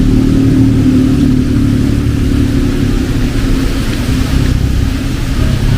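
Road traffic: a motor vehicle engine running close by with a steady low hum that fades after about three seconds, over an even hiss of heavy rain.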